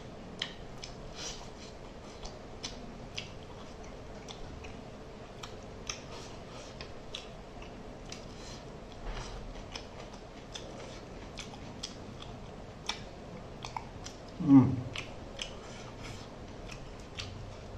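Close-miked eating: chewing and lip-smacking with many short wet clicks as rice, curry and mackerel are eaten by hand. About three-quarters of the way through comes one short, louder vocal sound falling in pitch.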